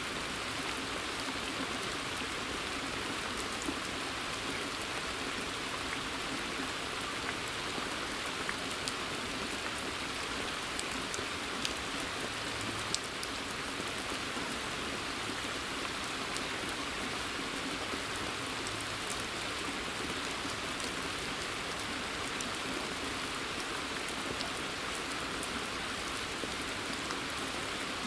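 Steady rain falling in a forest, an even hiss with single drops ticking sharply here and there.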